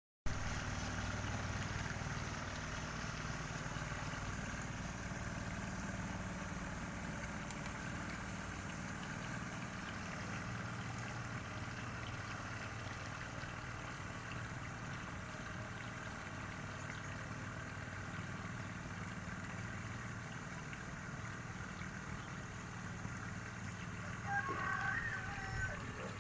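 Steady engine hum over a constant background rumble, running evenly throughout. A few short higher-pitched sounds come in near the end.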